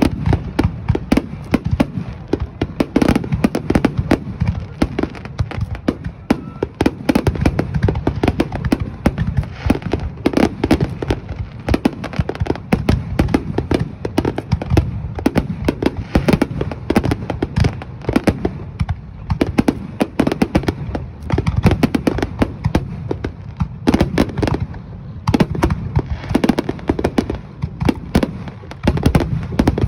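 A fireworks display with aerial shells bursting in rapid, unbroken succession. Many sharp cracks and bangs pile up over a continuous low rumble of booms.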